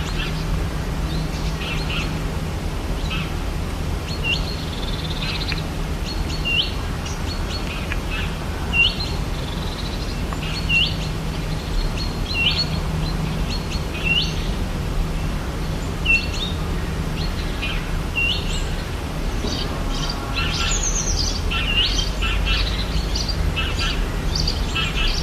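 Rainforest birds calling. One bird repeats a short upswept call every second and a half or so, then several birds chirp together near the end, over a steady low background.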